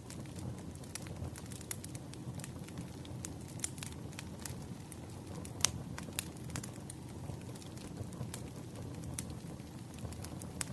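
Wood fire burning: a steady low rumble of flames with irregular sharp crackles and pops, one louder pop about halfway through.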